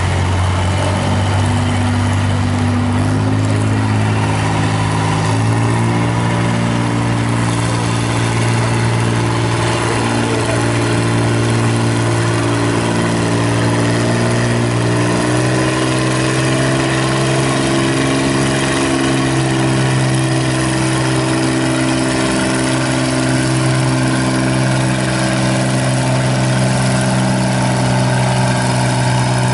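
John Deere 4010 tractor's six-cylinder engine running hard under load while pulling the sled, its pitch stepping up twice in the first several seconds, rising a little again midway, then holding steady.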